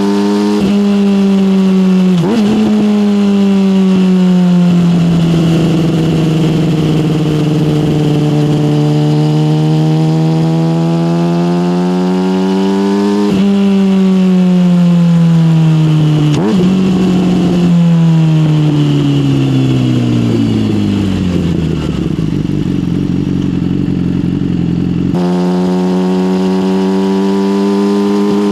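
Yamaha motorcycle with an SC Project aftermarket exhaust being ridden: the engine note rises under throttle and drops sharply at several gear shifts. Later the revs fall steadily as the bike slows, and about 25 seconds in the engine note jumps abruptly back to a steady pitch.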